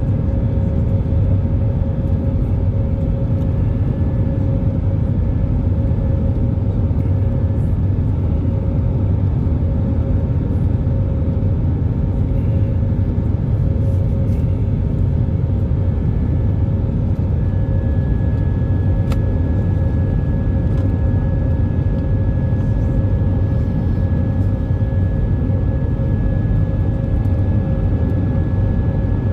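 Airbus A319 cabin noise during takeoff: a loud, steady rumble of the jet engines and airflow, with a steady whine that grows stronger about two-thirds through.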